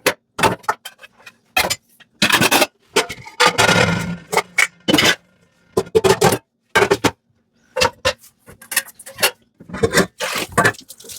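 Dishes being scrubbed and handled in a kitchen sink: irregular short bursts of scrubbing broken by gaps, with knocks and clinks of crockery.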